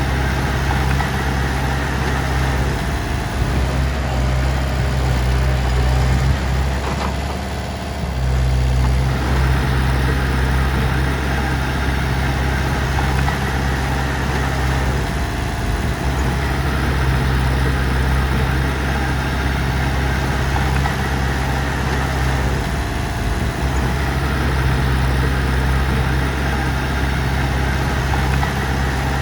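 Heavy machine's diesel engine running steadily with a deep low drone, dipping briefly about eight seconds in before picking back up.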